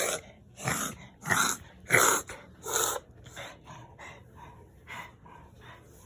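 A dog coughing: five loud hacking coughs in a row about two-thirds of a second apart, then fainter, smaller coughs and breaths.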